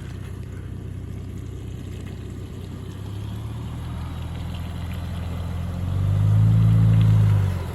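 Ford Bronco Raptor's 3.0-litre twin-turbo EcoBoost V6 running low and steady, then pulling harder about six seconds in, its note rising and swelling for about a second and a half before easing off.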